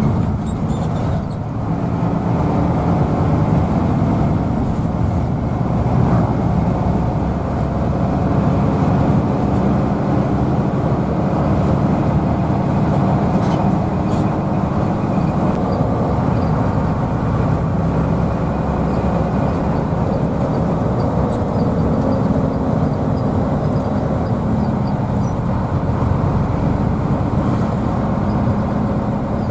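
Hino AK bus's diesel engine running steadily under way, with road noise, heard from inside the passenger cabin.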